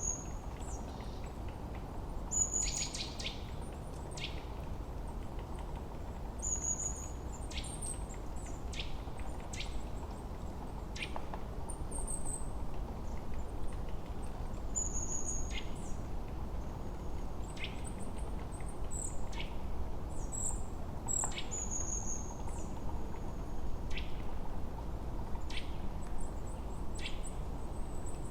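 Forest birds singing: short high chirps and thin downward-sliding whistles, one or two a second, over a steady low rush of wind.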